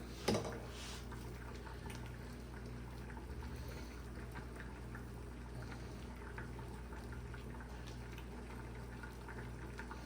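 Faint, irregular crackling and bubbling of food cooking on the stovetop, over a steady low hum, with a brief knock right at the start.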